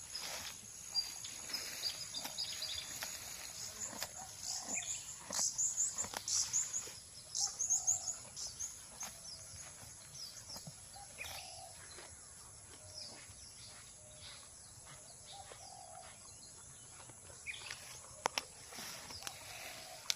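Small birds chirping in quick high bursts, busiest and loudest a few seconds in, over a cow tearing and chewing grass with scattered sharp snaps, one of them loud near the end.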